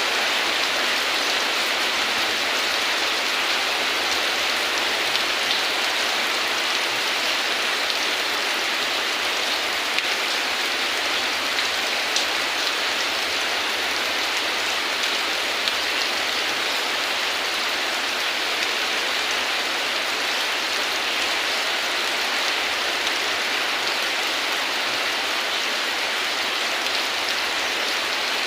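Steady heavy rain falling, an even hiss with a few faint drop ticks.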